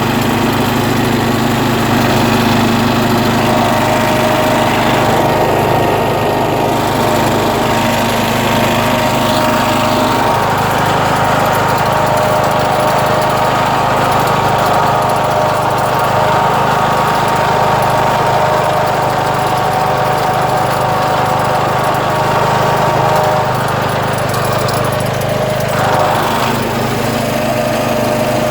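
John Deere tractor engine running steadily as the tractor drives through soft sand, its tone shifting slightly about ten seconds in and again near the end.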